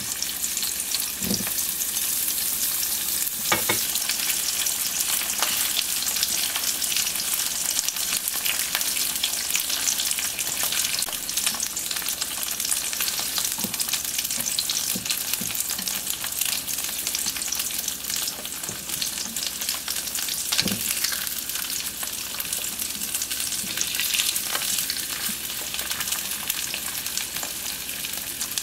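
Oil sizzling and crackling in a nonstick frying pan as fried tofu pockets stuffed with mushroom filling shallow-fry in a little oil, reheating and crisping the outer skin. A few knocks come as pieces are set down and turned with chopsticks, about a second in, near four seconds and again past twenty seconds.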